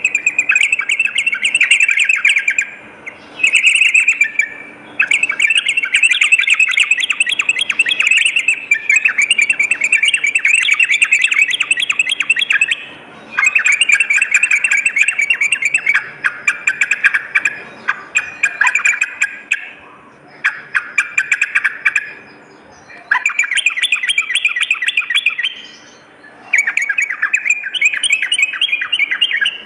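Yellow-vented bulbuls (trucukan) singing in long runs of rapid, bubbly chattering notes, broken every few seconds by short pauses. A faint steady hum sits beneath the song.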